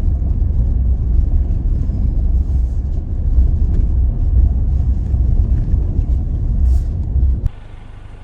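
Toyota Tacoma truck driving on a rough dirt trail: a loud, heavy low rumble of engine and tyres. Near the end it drops off suddenly to a much quieter steady hum.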